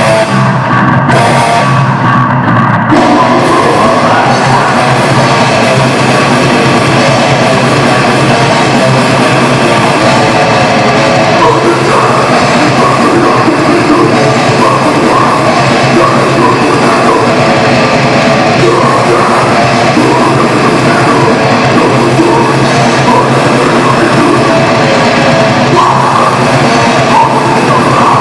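Heavy metal band playing live: distorted guitars, bass and drums in a loud, dense wall of sound. It opens with choppy stop-start riffing for about three seconds, then runs on without a break.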